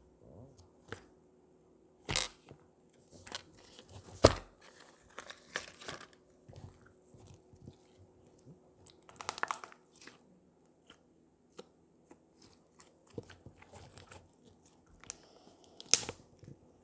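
Slime being squeezed and stretched by hand, giving irregular crackling pops and clicks with quiet stretches between, the loudest pops about four seconds in and near the end.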